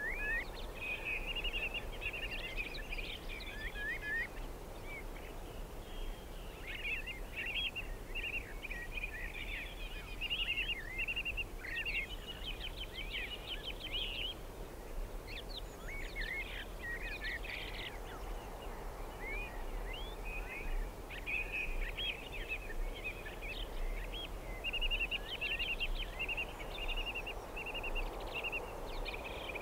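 Small birds chirping and twittering, in quick overlapping calls, over a steady low background noise.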